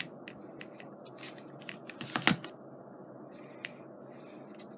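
Small scattered clicks and taps from handling scrapbooking supplies on a desk, with a sharper cluster of clicks about two seconds in.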